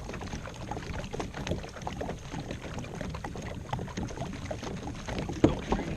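Small knocks and handling noise on a kayak over a low rumble, with a sharper knock about five and a half seconds in.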